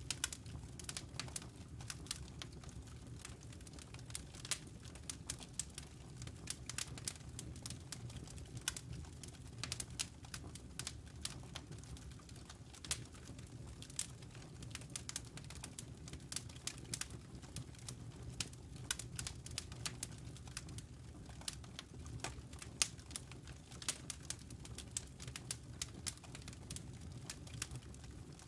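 Campfire of burning wood and embers crackling: dense, irregular sharp pops and snaps over a low, steady rumble of the burning fire.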